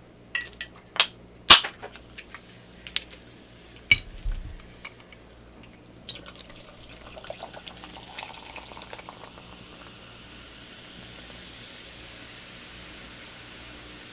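Ginger ale poured over ice into a glass. A few sharp clicks and clinks come first, then from about six seconds in the pouring starts and settles into a steady carbonated fizz.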